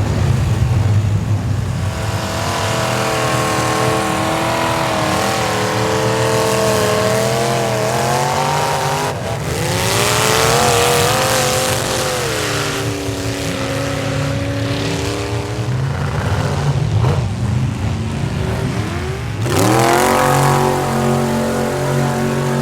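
A square-body Chevy pickup's engine revving hard in a mud bog run, its pitch climbing and falling again and again. About a third of the way in there is a loud rush of noise from spinning tires and thrown mud, and near the end the engine drops briefly and climbs once more.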